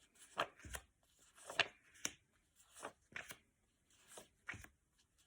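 Faint, scattered rustles and light taps of paper flashcards being handled, about eight short sounds spread over the pause.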